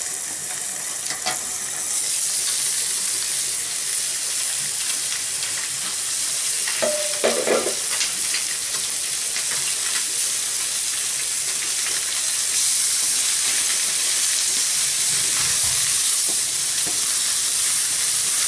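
Food sizzling in hot oil in a frying pan over a wood fire; the sizzle jumps up about two seconds in, when the food goes into the pan, and grows louder again later. A short ringing knock about seven seconds in, with light taps of chopsticks turning the food.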